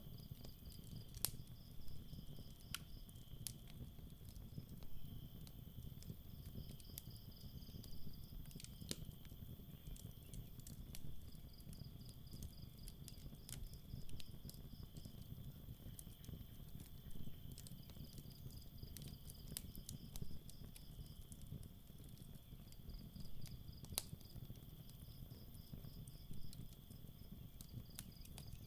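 Campfire crackling with scattered sharp pops and a low rumble, over night insects: a steady high drone and a pulsed cricket trill that comes in spells of a few seconds.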